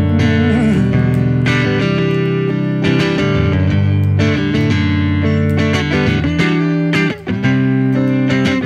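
Live band intro led by guitar: strummed chords over a bass line, with a short break a little after seven seconds.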